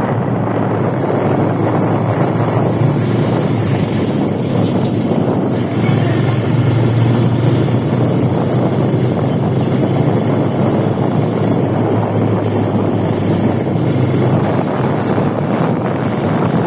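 A steady low engine drone with wind rushing over the microphone.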